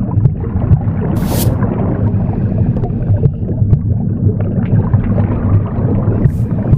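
Recorded womb sound, a steady low rumbling whoosh, mixed with a broom sweeping: one short swish about a second in and another near the end.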